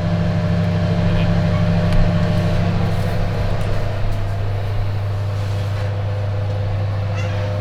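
Steady low electrical hum of a running kitchen appliance, with a faint higher tone above it, unchanging throughout.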